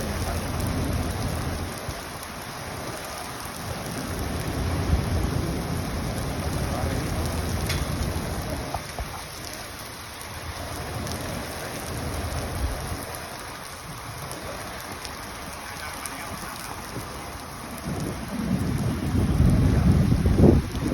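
Heavy rain falling steadily, with thunder rolling through it in several long, deep rumbles, the loudest near the end.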